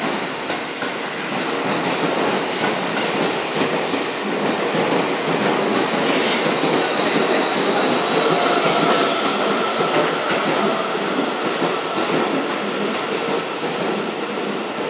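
Electric commuter trains moving along a station platform, with steady running and wheel clatter. From about halfway through, a thin steady whine rises over the rumble as a Seibu 30000-series train pulls in and slows.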